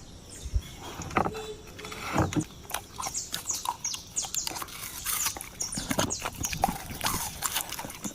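A large dog, a cane corso, chewing and crunching biscuits, with irregular crisp crackles and clicks.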